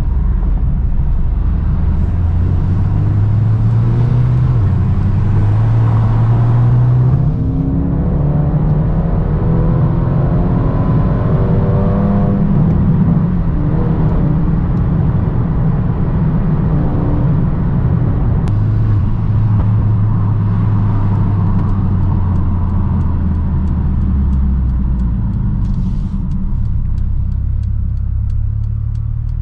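Mercedes-AMG A35's turbocharged 2.0-litre four-cylinder, tuned to stage 1 and running without its rear silencer, heard from inside the cabin. It pulls up through the revs with a rising note about a third of the way in, then settles to a steady cruise and eases off. A few faint clicks come near the end.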